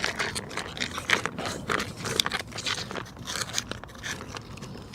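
Irregular crunching and scraping, a dense run of short crackles with no steady rhythm.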